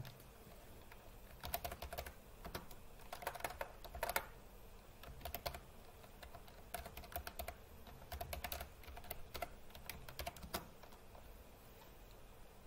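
Typing on a computer keyboard: faint key clicks in several short bursts, stopping a couple of seconds before the end.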